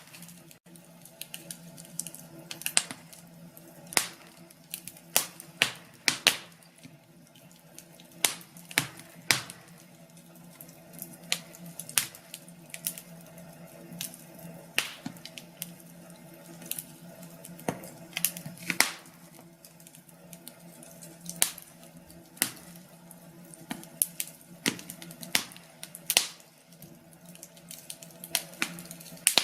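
Wood fire in a fireplace crackling, with sharp pops and snaps at irregular intervals over a low steady hum.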